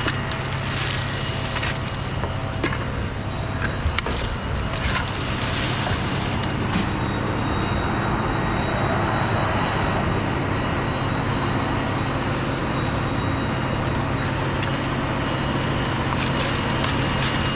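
An engine running steadily at a constant speed, with a few sharp cracks in the first six seconds or so.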